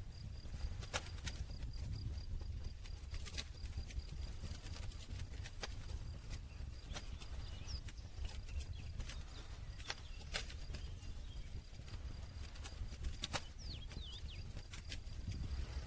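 Campfire burning: wood crackling with irregular sharp pops and snaps over the low, steady rumble of the flames.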